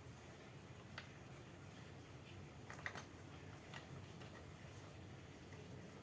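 Near silence with a few faint, sharp clicks, about one, three and four seconds in.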